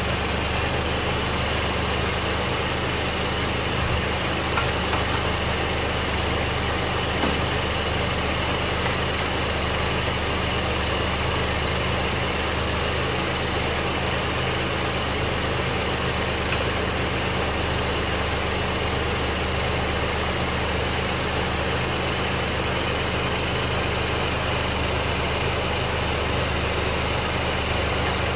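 Proton X50's engine idling steadily, a constant low hum with no change in speed.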